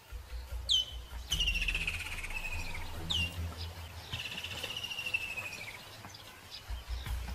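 A songbird singing: twice, a sharp downward-sliding whistle followed by a long rapid trill that falls slowly in pitch, over a low outdoor rumble.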